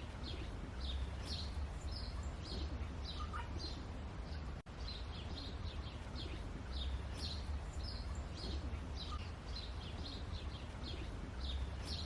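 Small birds chirping over and over, short quick calls, over a steady low rumble. The sound drops out for an instant about four and a half seconds in.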